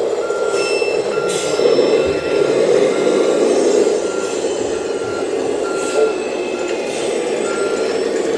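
Reversing beeper from an RC model truck's sound module, beeping at an even pace about one and a half times a second over the module's steady engine sound.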